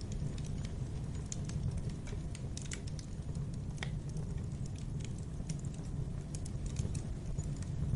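Fireplace fire crackling: irregular sharp crackles and pops over a steady low rumble of the flames.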